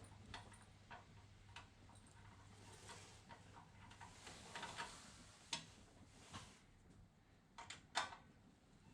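Scattered light clicks and taps of hand work with tools and small parts, over a steady low hum; the sharpest knock comes near the end.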